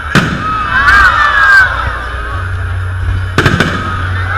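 Aerial fireworks shells bursting with sharp bangs: one just after the start, a quick cluster about a second in, and two close together near the end, over a crowd's shouting and cheering voices.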